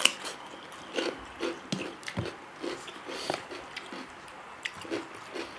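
Close-miked chewing of noodles and omelette, with a few light clicks of chopsticks against steel plates.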